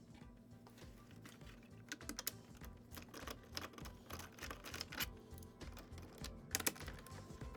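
Irregular clicks and light knocks of hard parts and tools being handled, busier from about two seconds in and loudest near the end, over faint background music.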